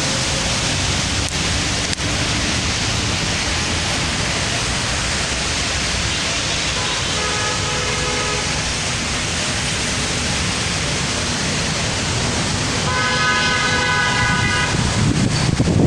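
Steady road traffic noise. A car horn sounds twice, once about halfway through and again for a couple of seconds near the end.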